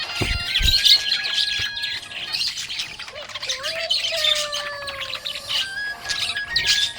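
Budgerigars chirping and chattering: a continuous stream of rapid, high chirps and squawks, with a couple of soft low thumps in the first second.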